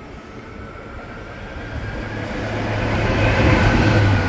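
A train approaching along the platform and coming alongside, growing steadily louder, with a steady low hum and a fainter higher whine.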